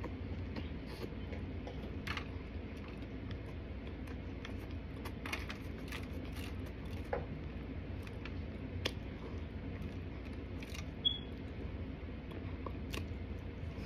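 Close-up chewing of dry starch: scattered soft crunches and sharp clicks from the mouth, with one brief high squeak late on, over a steady low hum.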